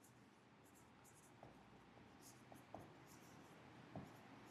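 Faint scratching of writing strokes on a writing surface, with a few soft taps.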